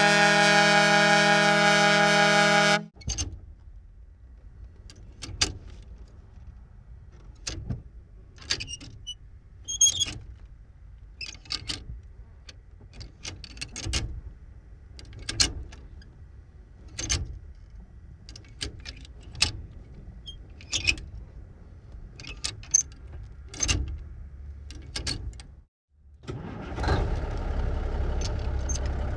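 A 1954 big rig truck's horn blowing one steady, held blast for about three seconds. Then, from inside the cab, a long run of sharp clunks and clicks at irregular intervals from the gear lever being shifted dry, with no engine running. Near the end, the engine starts and runs with a steady low rumble.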